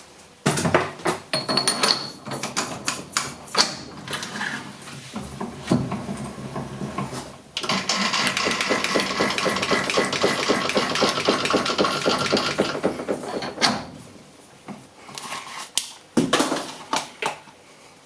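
Clanks and knocks of metal tooling being handled at a Hare and Forbes AL335 metal lathe, then the lathe runs steadily for about six seconds with a fast, even mechanical rhythm while centre-drilling the stock, followed by more knocks.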